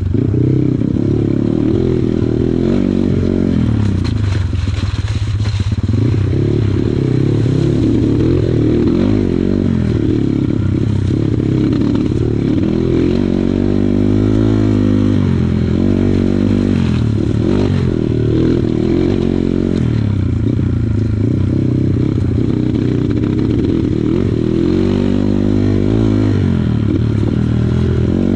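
Kawasaki KLX140 dirt bike's single-cylinder four-stroke engine running under load, the revs rising and falling again and again as the throttle is worked.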